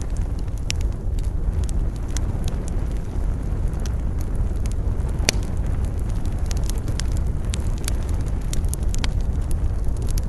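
Wood campfire crackling with many sharp pops and snaps, one louder snap about five seconds in, over a steady low rumble of wind.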